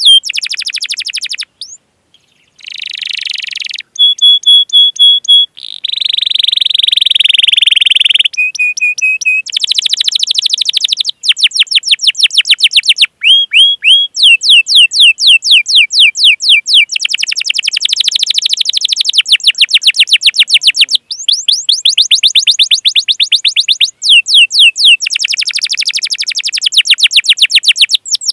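Domestic canary singing a long rolling song. It runs fast series of sharp down-slurred "cuit cuit" chirps, many a second, with a brief break about two seconds in, a few short held whistled notes and a dense buzzy trill about a quarter of the way through.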